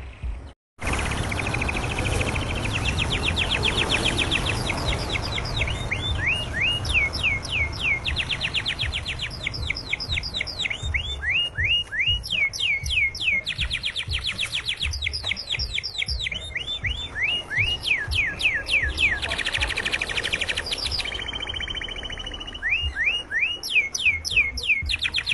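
Domestic canary in full song: rapid trills of repeated falling whistled notes, phrase after phrase, over a low steady rumble. The song breaks off for a moment about half a second in.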